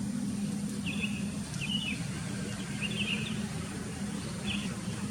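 Sooty-headed bulbul giving four short, quick chirps, spaced a second or so apart, over a steady low hum.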